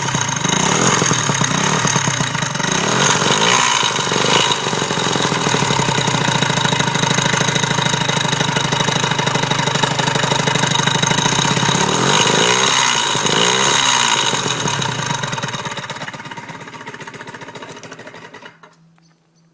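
Gilera Runner scooter engine running with a rattle from the alternator area, which the owner suspects is bearing damage. It is revved briefly twice, then winds down and stops shortly before the end.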